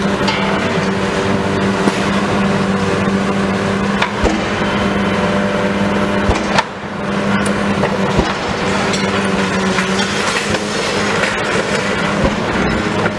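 Heavy demolition machinery's engine running with a steady hum, under a noisy layer of scattered knocks and crunches; the sound dips briefly about two-thirds of the way through.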